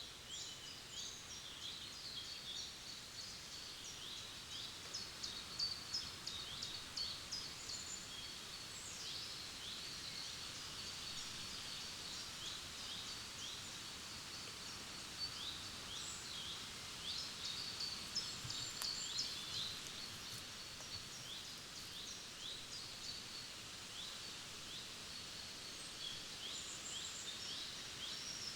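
Several forest songbirds singing, with quick runs of short, high, falling chirps coming again and again over a steady soft hiss.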